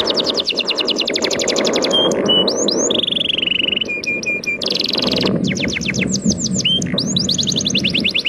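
A songbird singing long, fast trills of rapid falling notes, broken by a few short steady whistles and buzzy notes, over the steady rush of sea waves.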